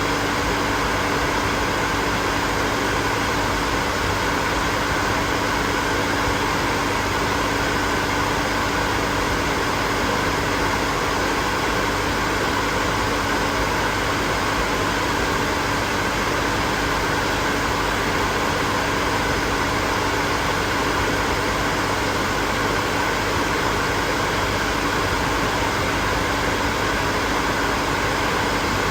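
Hair dryer running steadily: a constant rush of blown air with a steady motor hum.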